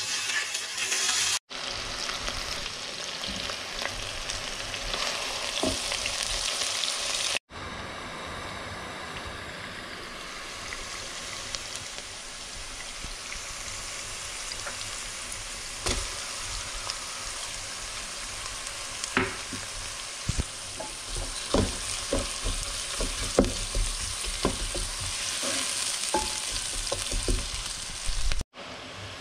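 Diced bell peppers sizzling in hot oil in a nonstick pan, a steady frying hiss. From about halfway through, a wooden spoon stirs them, knocking and scraping against the pan.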